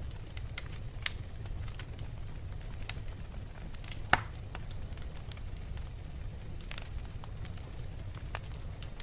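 Wood logs burning in a fireplace: a steady low rumble of flame with scattered crackles and pops, the loudest pop about four seconds in.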